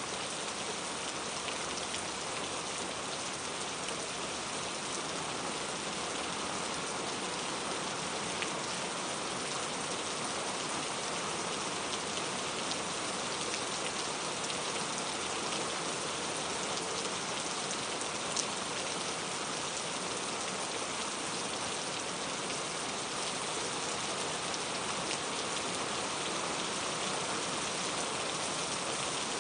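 Steady rain falling on a surface, an even hiss with now and then a louder drop.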